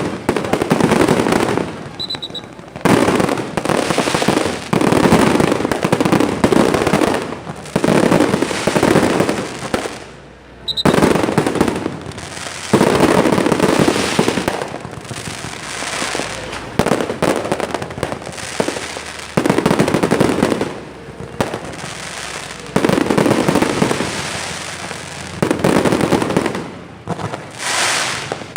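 Fireworks going off in a dense barrage of bangs and crackling, in loud clusters broken by a few short lulls.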